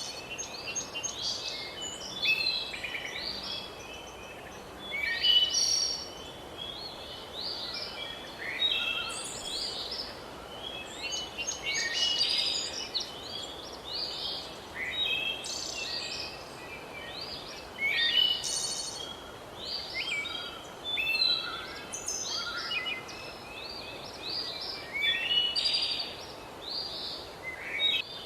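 A chorus of songbirds chirping and trilling in quick, overlapping phrases over a steady faint hiss of outdoor ambience.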